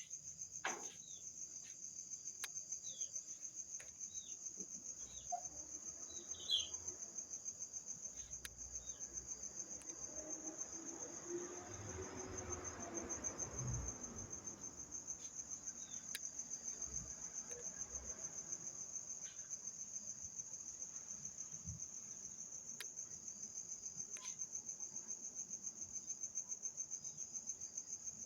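Insects trill steadily in a high, rapidly pulsing chorus. About ten seconds in, a low roll of distant thunder swells for several seconds and fades.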